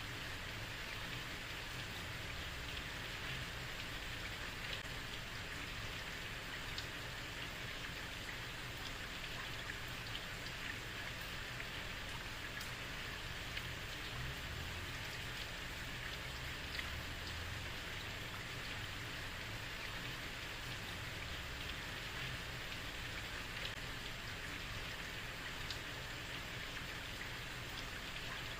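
Steady heavy rain falling on a street, an even hiss with scattered sharper drop ticks and a low rumble beneath.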